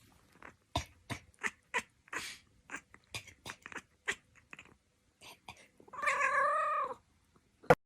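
Short, quick clicks of chewing, then about six seconds in a cat meows once: a drawn-out, wavering call lasting about a second.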